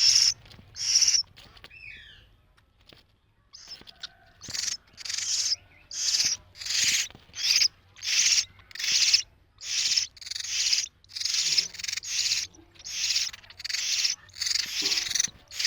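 Seven-day-old hill myna chicks giving harsh, hissing begging calls over and over, about one and a half calls a second, after a short lull near the start.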